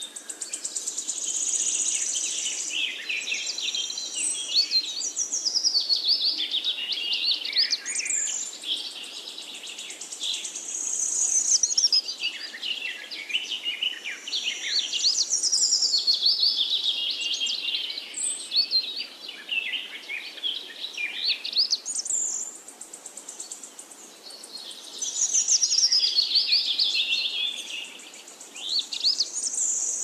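Small birds singing: quick strings of high chirps that slide down in pitch, repeating every few seconds, with a steady high buzz under some of the phrases.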